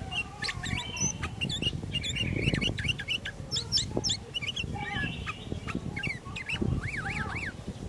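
Sooty-headed bulbuls singing: many quick, overlapping whistled and chattering notes that sweep sharply up and down, over a low background rumble.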